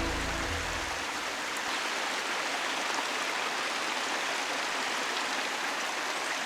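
Steady rushing of a creek's running water; background music fades out in the first second.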